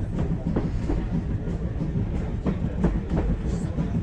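Steam-hauled railway carriage running along the track: a steady low rumble with irregular knocks and clatter from the wheels.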